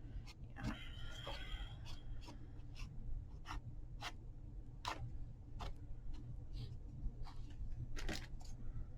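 Faint small ticks and rustles of threads being pulled loose to fray the edge of an embroidered fabric tag, over a steady low hum.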